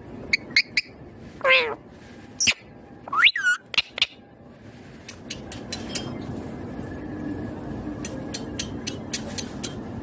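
Ringneck parrot calls: a short wavering squawk falling in pitch about a second and a half in, then a sharp rising squawk around three seconds in, among several sharp clicks. Later a steady background noise with scattered ticks.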